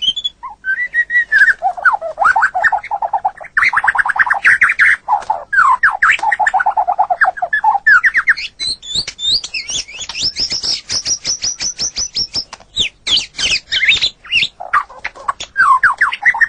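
White-rumped shama (murai batu) singing a continuous varied song of rapid trills and quick repeated notes. Lower phrases give way about halfway through to a fast run of high notes, then mixed phrases follow.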